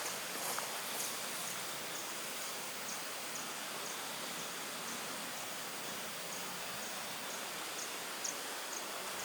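Forest ambience: a steady hiss with a short, high chirp repeating about twice a second, like an insect calling.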